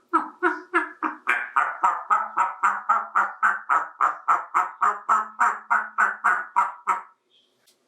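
African Grey parrot giving a rapid string of short repeated calls, about four a second, which stops abruptly about seven seconds in.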